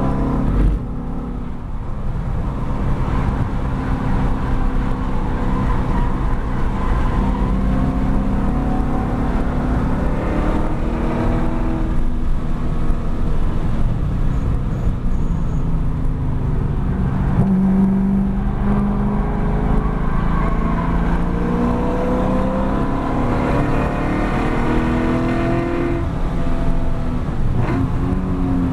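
Chevrolet Camaro SS 1LE's 6.2-litre V8 under hard acceleration, heard from inside the cabin. The engine note climbs in long pulls, with a brief dip about a second in, over steady wind and tyre roar.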